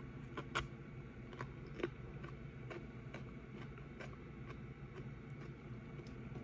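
Close-up mouth sounds of someone biting and chewing fresh cucumber slices: two sharp crunches about half a second and two seconds in, then fainter wet chewing clicks.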